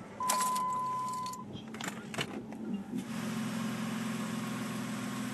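A Jeep Liberty being started with the key: a steady warning tone sounds for about a second as the engine is turned over, then the engine catches about three seconds in and settles into a steady idle.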